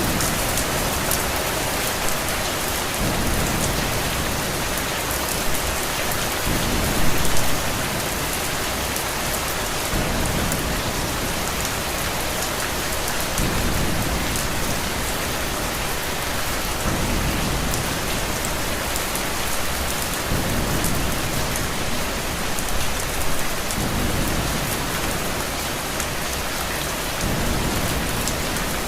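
Steady rain falling on a surface, with a low rumble that swells and fades every few seconds and a brief louder burst about seven seconds in.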